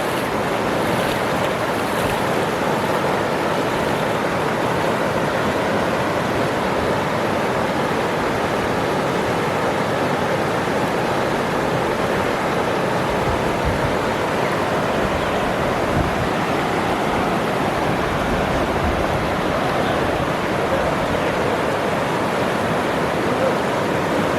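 Waterfall: a steady, even rush of falling water that holds at the same level throughout.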